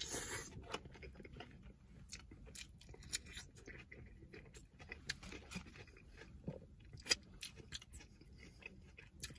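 Close-miked chewing of a bite of poutine with pepperoncini: soft wet mouth sounds and scattered small clicks, faint.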